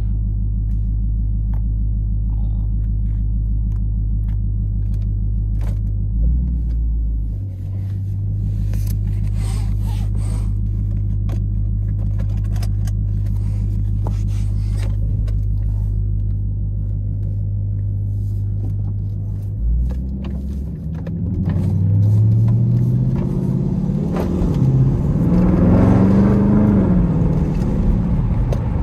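Dodge Charger SRT's V8 engine idling with a deep, steady rumble, heard from inside the cabin. About twenty seconds in, the engine speed rises and falls a few times and the sound grows louder.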